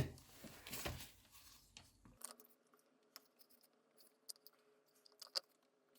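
A few faint, scattered small clicks and light taps from hands handling small parts and tools; otherwise very quiet.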